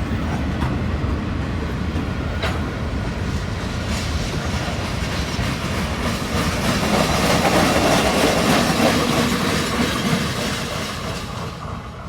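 Freight train cars rolling past on the rails, wheels clicking over rail joints. The sound swells about seven seconds in, then fades near the end.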